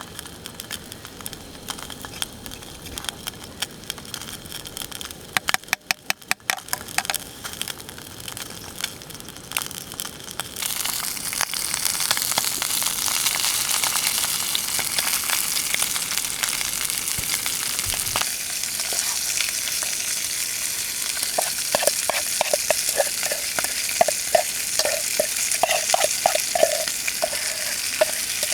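Food sizzling in a hot pan, starting suddenly about a third of the way in and then hissing steadily. Before it come scattered clicks and knocks, with a quick run of sharp clicks early on. Near the end there is a series of short scraping strokes, a few a second.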